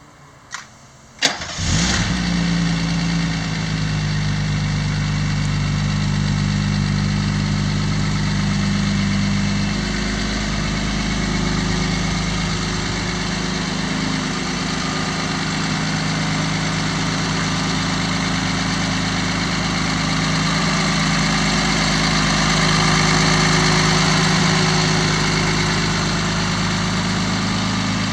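Two sharp clicks, then the 1969 Mercedes 280SE's straight-six catches almost at once and settles into a steady idle. It swells slightly about three-quarters of the way through.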